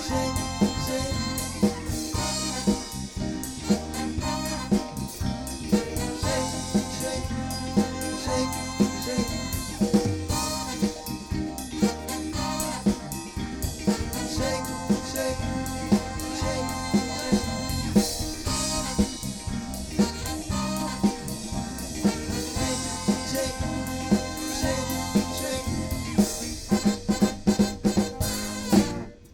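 Live band music: an instrumental passage driven by a drum kit with a steady snare backbeat over bass and sustained instruments. Near the end the drummer plays a quick run of hits before the music cuts off.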